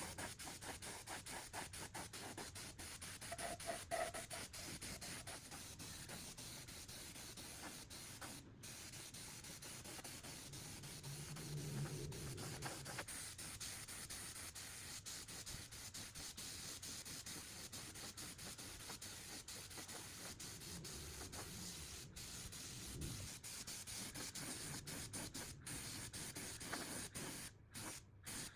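Fast, repeated rubbing strokes on a surface over a steady hiss, like hand sanding or scrubbing.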